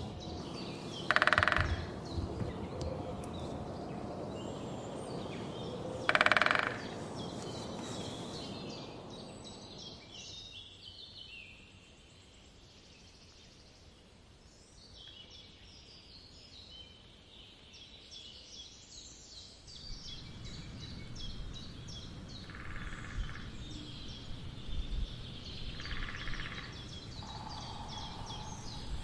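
Woodland bird ambience. Two loud, short, harsh bursts come about a second in and about six seconds in, then many small birds chirp and twitter high up, with a few fainter short bursts near the end.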